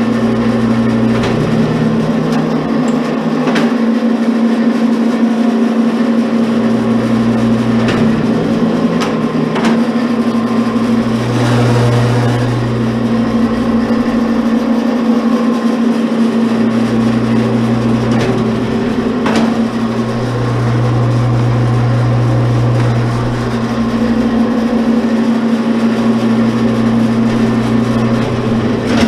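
Commercial electric wire stripper's motor running with a steady hum. A deeper hum swells and fades in spells of a few seconds, with scattered sharp clicks.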